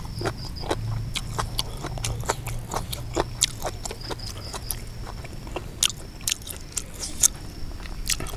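A person chewing a mouthful of Isan raw-beef dish close to the microphone: wet smacks and clicks of the mouth at irregular intervals.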